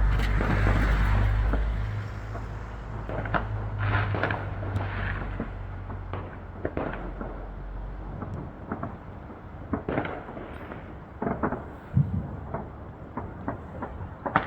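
Fireworks going off: a loud low rumble for the first two seconds, then scattered sharp cracks and pops, with a heavier bang about twelve seconds in.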